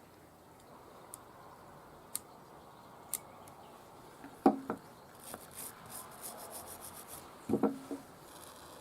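Small carburetor parts being handled and worked on a bench: a few light clicks, some rubbing and scraping, and two louder clattering knocks, one midway and one near the end.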